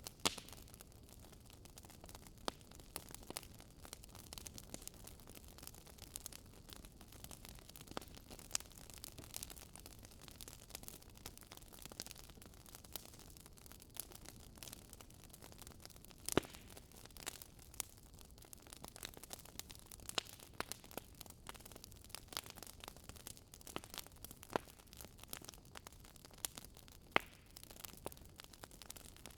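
Campfire crackling: frequent irregular pops and snaps of burning wood over a low steady hiss, with one sharper pop about halfway through.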